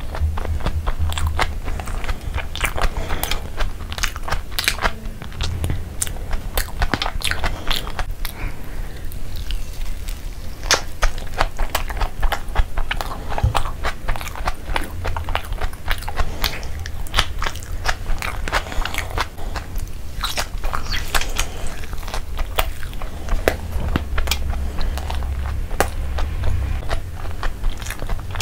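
Close-miked chewing and biting of a chicken burger: a dense, irregular run of sharp crunches and clicks from the breaded fried patty and fresh cucumber and tomato.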